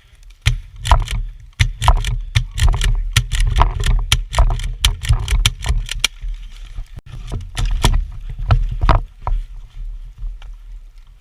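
Wind buffeting the microphone with a heavy low rumble, under a string of sharp irregular cracks, two to four a second, that thin out near the end.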